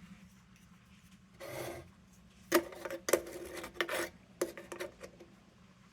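Bare metal parts of a cold-blast lantern being handled and fitted together: a brief scrape, then a series of light metallic clinks and knocks, each with a short ring.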